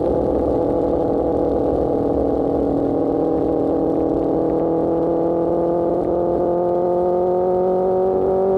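Sport motorcycle engine breathing through an Austin Racing GP1R aftermarket exhaust, running steadily under way, with the revs holding and then slowly climbing in the second half.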